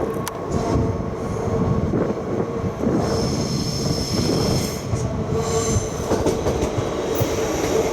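Train running on the rails with a dense, steady rumble of wheels and cars. From about three seconds in, high-pitched squealing tones from the wheels rise over it for a few seconds.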